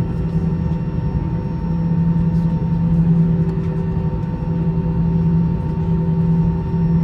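Airbus A321's jet engines running at low power during taxi, heard inside the passenger cabin: a steady drone with a strong low hum and fainter steady higher tones.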